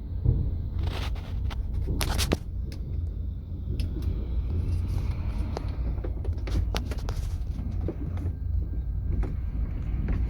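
Low, steady vehicle rumble with scattered knocks and clicks.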